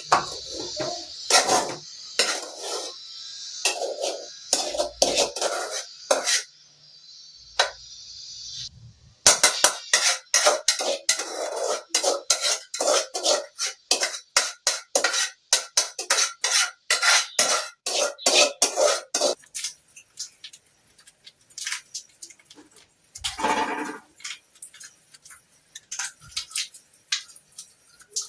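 A metal spoon scooping and scraping cooked rice from one pot into the biryani pot: many quick clinks and scrapes against the metal, densest in the middle and thinning to a few strikes near the end. A steady hiss runs under the first several seconds.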